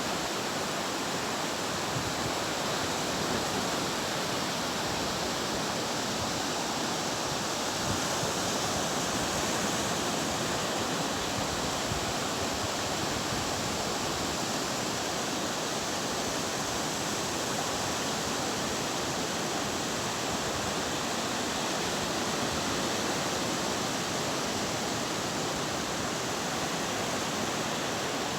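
Steady rushing of sea surf breaking on a beach, an even, unbroken noise.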